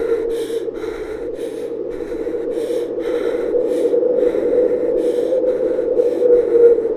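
A steady droning hum with short, breathy gasp-like pulses repeating about twice a second over it.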